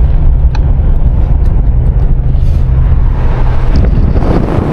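Steady low rumble of a car's engine and tyres heard from inside the moving car. Near the end the noise turns rougher and spreads higher.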